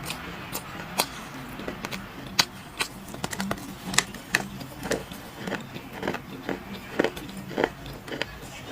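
Dry clay crunching: a run of sharp, irregular cracks and crunches, about two a second.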